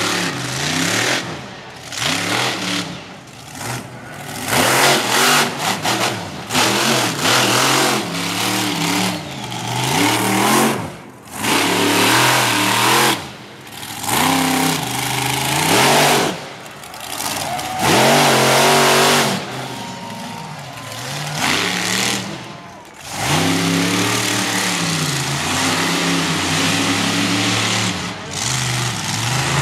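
Monster truck engine revving hard again and again, its pitch climbing and falling every second or two, with several brief moments where the sound drops away sharply.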